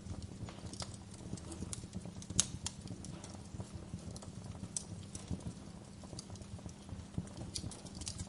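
Wood fire crackling, with irregular sharp pops and snaps over a low steady rumble and a soft hiss of gentle rain. The loudest pop comes a little over two seconds in.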